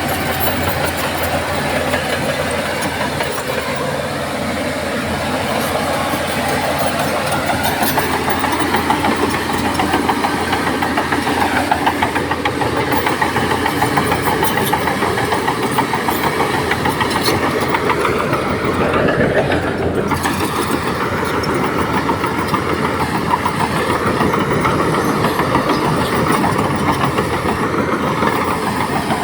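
Crawler bulldozer's diesel engine running hard under load, with a dense, rapid clatter from the machine.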